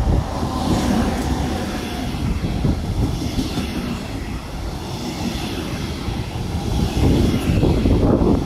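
Train running through the station, with a faint falling whine near the start, and gusting wind on the microphone.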